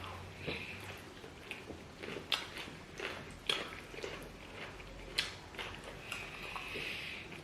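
Close-miked eating of boiled yam and plantain with stew: chewing and biting sounds, with short sharp clicks about once a second.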